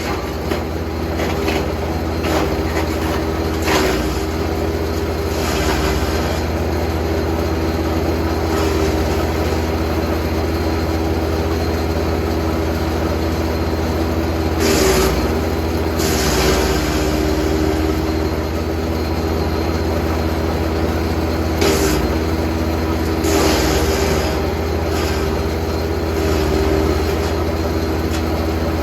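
Jansen GTS 1500e wood chipper running steadily with a constant engine hum, broken several times by short crunching bursts as branches are fed through and chipped.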